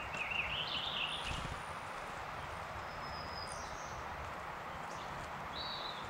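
Wild birds calling over steady background hiss: a warbling call of about a second and a half at the start, then a few thin, high whistles and a short note near the end.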